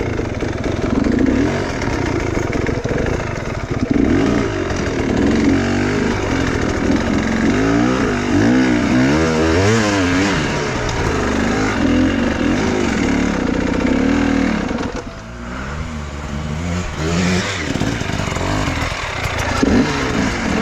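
Enduro motorcycle engine revving, its pitch rising and falling again and again under the throttle. There are quick surges about halfway through and a short drop in loudness a little later, as the throttle is shut off.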